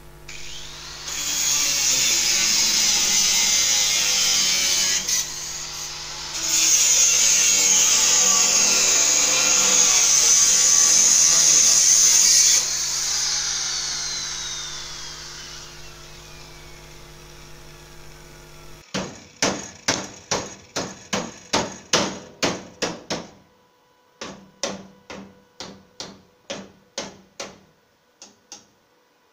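A handheld power tool runs loudly on the car's sheet-metal body, then spins down with a slowly falling whine. After that, a hammer strikes sheet metal in a steady run of blows about two a second, with a short break midway.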